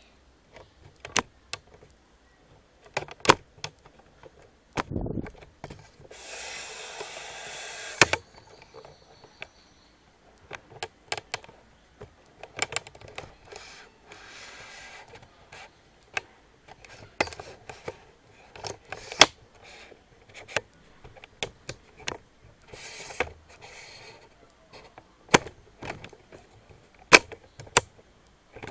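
Handling noise from crafting work: scattered sharp clicks and knocks of materials and tools handled on a table, with a rustling stretch of about two seconds some six seconds in and fainter rustles later.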